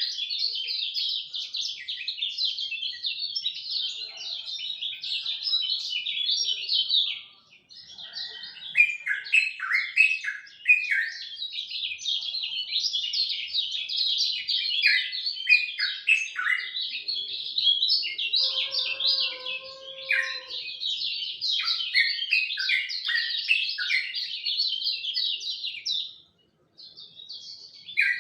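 Kecial kuning songbird singing a fast, continuous twittering song of rapid high chirps in long phrases, pausing briefly about a quarter of the way in and again near the end. A faint, lower, steady two-note tone sounds for a couple of seconds in the middle.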